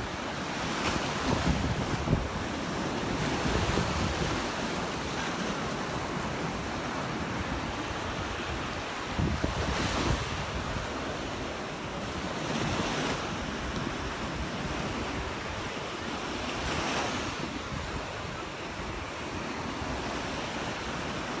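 Gulf of Mexico surf washing onto the beach, with wind buffeting the microphone. The noise swells and eases every few seconds.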